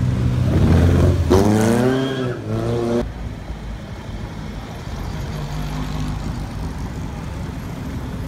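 Vintage sports car engines passing at low speed. About a second in, one engine revs up and back down twice in quick succession. Then a quieter, steady engine hum follows as the next cars roll by.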